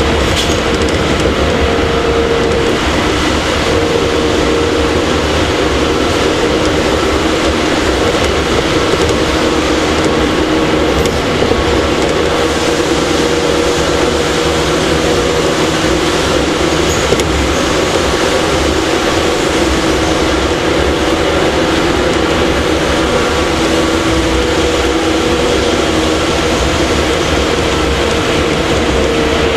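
Running noise inside a JR 115-series electric multiple unit's motor car at speed: a steady rumble of wheels on rail, with the wavering hum of its traction motors and gears.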